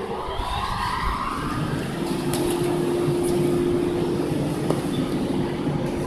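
JR 115 series electric multiple unit pulling away, its traction motors whining up in pitch over the first second or so, then a steady hum over running noise.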